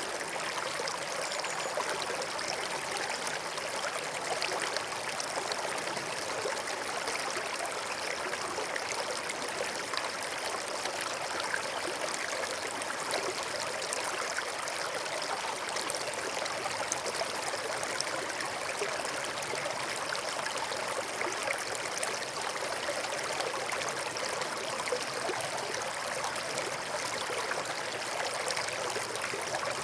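Forest stream running over stones: a steady, even babble of water with many small trickles and splashes.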